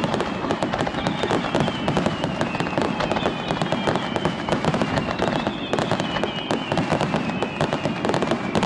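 Aerial fireworks bursting in a dense, continuous crackle of sharp pops, with a faint high tone slowly falling in pitch.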